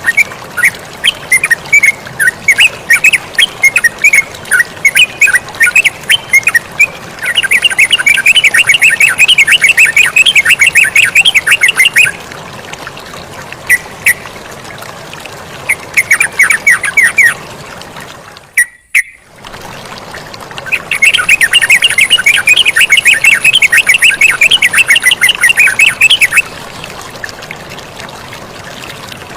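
Yellow-vented bulbul calling over a steady wash of running water. Scattered call notes give way twice to long bursts of fast chattering calls, with a brief cut-out of all sound in between.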